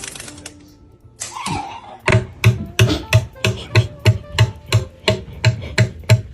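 Rhythmic knocking or thumping, about three blows a second, starting about two seconds in after a quieter stretch.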